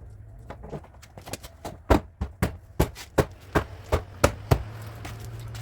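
Hammer tapping on a car's sheet-metal body panel: a few light taps, then a run of about nine sharp strikes at roughly three a second, over a steady low hum.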